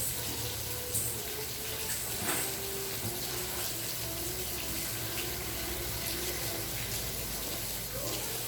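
Rain falling steadily, a dense even hiss with a few sharper drip ticks, about a second and two seconds in.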